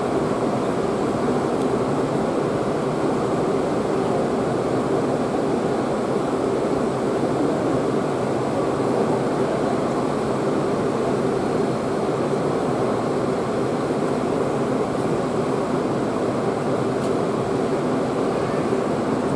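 Steady mechanical drone of a Kamome shinkansen train standing at the platform, its air-conditioning and auxiliary equipment running.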